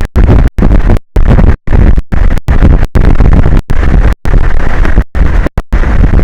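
Strong wind blasting an outdoor microphone, a loud rumbling noise that pushes the recording to full level, broken every fraction of a second by brief dropouts where the sound cuts out completely.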